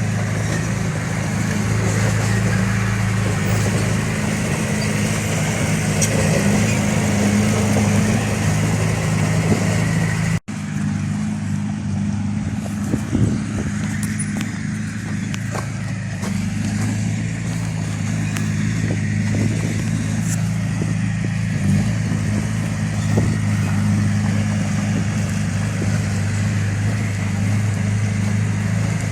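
Heavy-machine diesel engine running steadily at a constant speed, cutting out for an instant about ten seconds in, with scattered light knocks and clicks later on.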